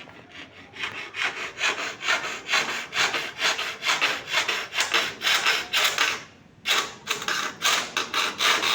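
Handsaw cutting wood by hand in quick, even back-and-forth strokes, about three a second, pausing briefly once before starting again.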